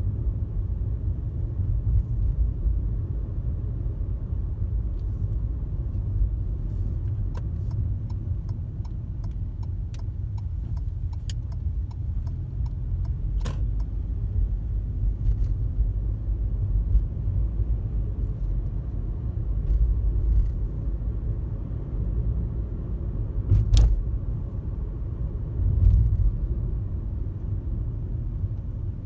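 Steady low road rumble of a car cruising on a highway, heard from inside the cabin. About a third of the way in comes a run of even ticks, two or three a second, lasting about five seconds, and there are a couple of sharp knocks.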